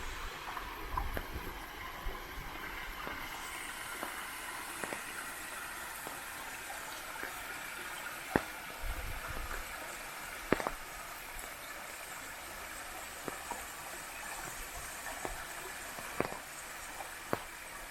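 Steady hiss of rain falling, with a few sharp taps scattered through it; two louder ones come near the middle.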